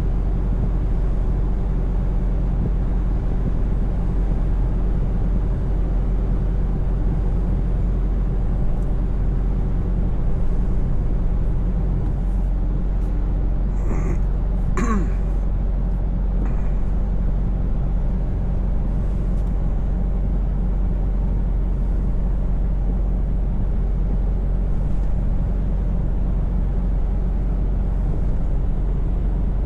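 Scania V8 truck engine running at a steady cruise, a constant low drone. About halfway through there is a short cough-like sound.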